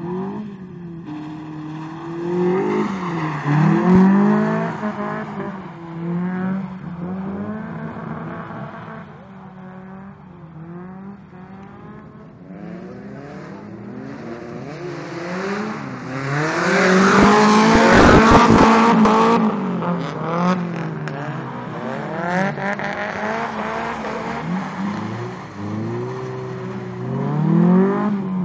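Toyota KE70 Corolla's swapped Nissan SR20DE four-cylinder engine being driven hard on track, revving up and dropping off again and again. It is loudest about two-thirds of the way through, where a high rev comes with a broad hiss of tyre noise.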